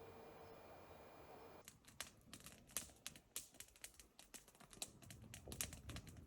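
Campfire crackling: irregular sharp pops and snaps that start suddenly about a second and a half in, after a faint steady hum.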